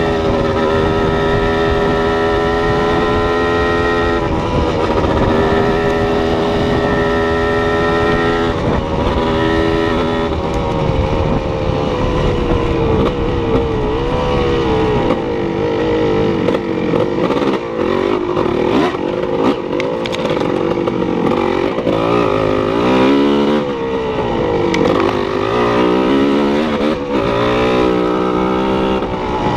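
An engine running, steady for about ten seconds, then its pitch rising and falling over and over as it is revved.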